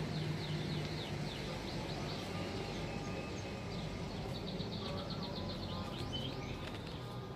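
Small birds chirping over and over in short falling chirps, over a steady low background hum.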